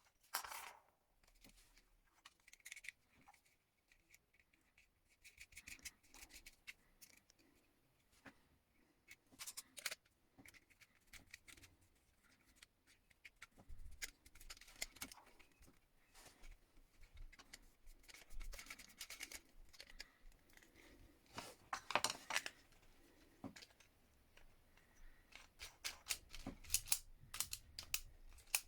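Hand tools working on electrical wire: scattered short snips and clicks of wire cutters or pliers, quiet at first and busier in the second half.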